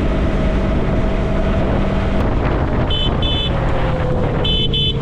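Yamaha MT-03 motorcycle engine running steadily on the road with wind rushing over the microphone, its pitch sinking slightly in the second half as it slows. Two pairs of short high beeps sound about three and four and a half seconds in.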